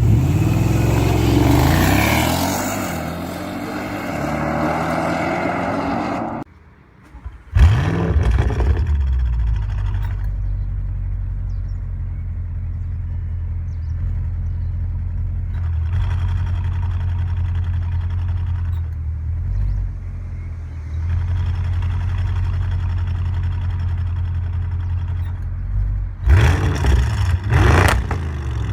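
Audi RS7 twin-turbo V8 revving, its pitch rising and falling. After a short drop-out it comes in again with a sudden loud burst and settles into a steady low idle, with a few sharp throttle blips near the end.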